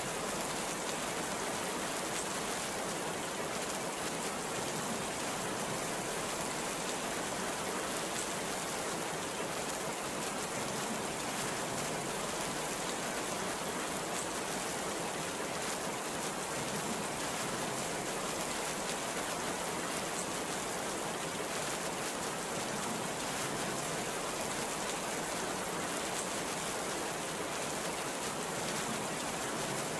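Very heavy rain pouring steadily as an even, unbroken hiss, with no thunderclap or gust standing out.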